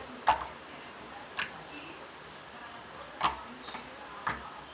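Hardened slime being squeezed and kneaded by hand, giving a few sharp clicks about a second apart. The slime went stiff and cracked after paint was mixed into it.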